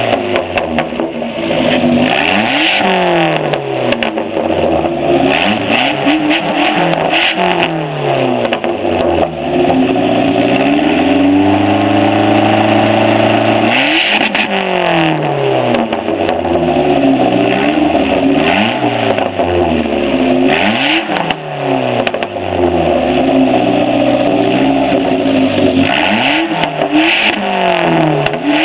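Dodge SRT-4's turbocharged 2.4-litre four-cylinder revved again and again in neutral, its pitch climbing and falling every two to three seconds, and held steady at high rpm for a few seconds midway. The exhaust is let out in front of the rear tire, with sharp crackles over the revs.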